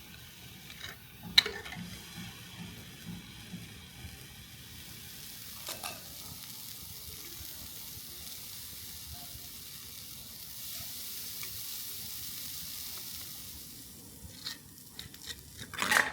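A faint, steady sizzling hiss, with a sharp knock about a second in and a run of clicks and knocks near the end.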